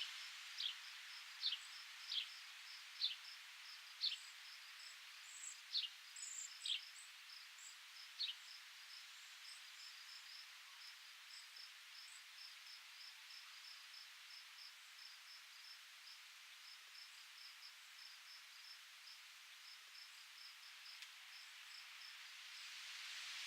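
Outdoor ambience: a bird repeats short, falling whistled notes, roughly one every second, for the first eight seconds, over the steady, rhythmic high chirping of a cricket. Underneath is a soft hiss of wind, which grows louder near the end.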